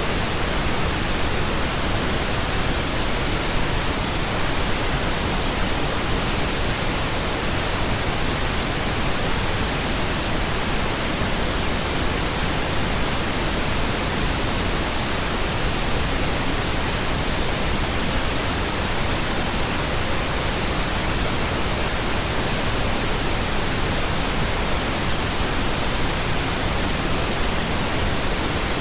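Steady pink noise: an even, unchanging hiss spread across the whole range, with no breaks.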